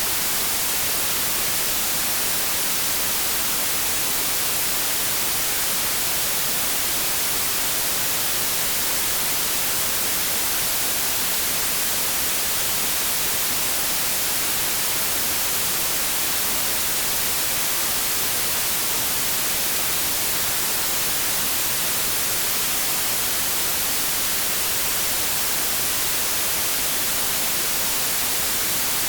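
Steady synthetic white noise: a constant, even hiss, brightest in the high frequencies, with no change or break.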